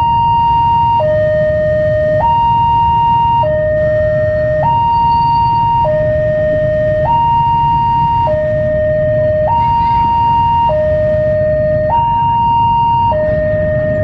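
Railway level-crossing warning alarm sounding its two-tone signal, a high and a lower tone taking turns about every second and a bit, warning that a train is coming. Under it runs a steady low rumble.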